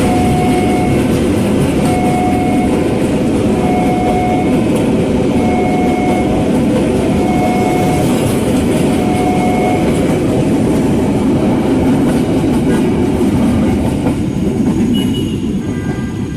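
A train running past close by, a loud rumble with wheels clicking over rail joints that eases off near the end. Over it, a steady electronic warning tone sounds on and off about every two seconds, then stops a little over halfway through.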